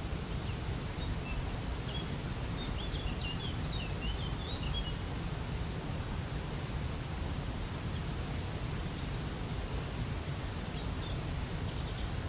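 Waterfall rushing steadily, with a small bird chirping a quick run of short high notes from about one to five seconds in and a few more near the end.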